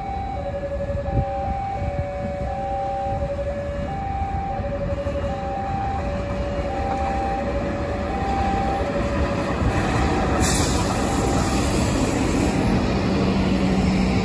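A diesel-electric locomotive hauling a passenger train passes close by, its rumble and wheel noise growing louder. Over it, a two-tone warning alarm alternates high and low about once a second and fades out about two-thirds of the way through. A brief hiss comes near the end, then a steady low hum.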